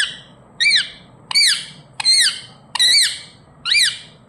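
Indian ringneck parrot (rose-ringed parakeet) giving a run of about six short, loud, shrill calls, one every two-thirds of a second or so, each rising then falling in pitch.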